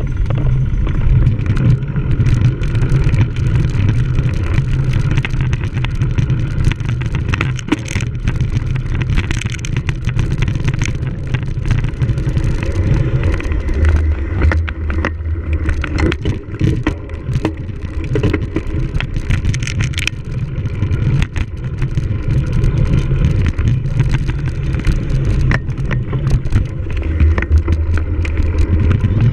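Cyclocross bike ridden hard over rough ground: a steady low rumble with frequent rattles and clicks, with wind on the microphone.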